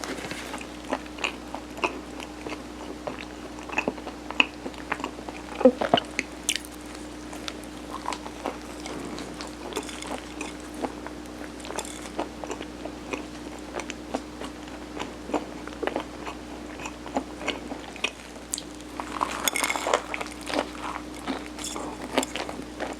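Close-up mouth sounds of someone chewing and eating mung bean steamed rice cake (sirutteok): soft, wet, irregular clicks and smacks, busier about twenty seconds in.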